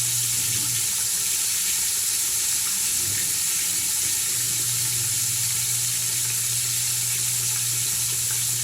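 Chicken frying in hot oil: a steady, even sizzling hiss with a low hum underneath.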